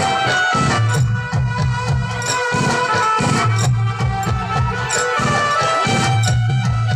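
Instrumental passage of Rajasthani garba folk music: a steady, driving drum beat under a sustained melody line.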